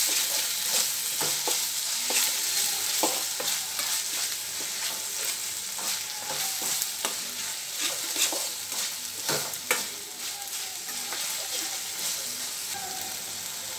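Onion-tomato masala sizzling in hot oil in a stainless steel kadai while a metal spatula stirs it, with irregular clicks and scrapes of the spatula against the pan.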